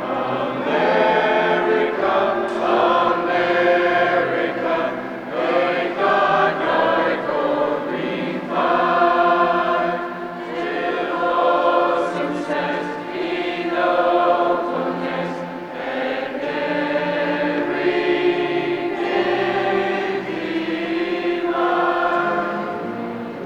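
A choir singing, with several held notes that change pitch together.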